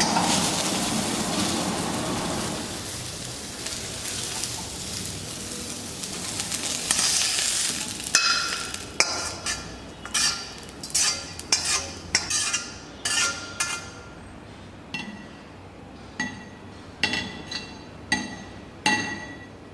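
Food sizzling in a hot pan, the sizzle fading away over the first several seconds. Then a metal utensil knocks and clinks against the pan, about one or two strikes a second, each with a short ring.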